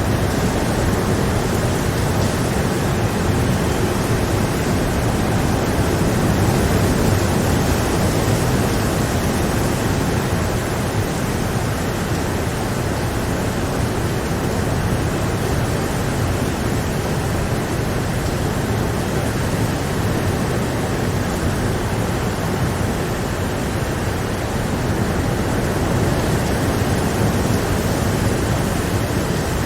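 Steady rain falling, an even unbroken noise with no distinct drops or thunderclaps standing out.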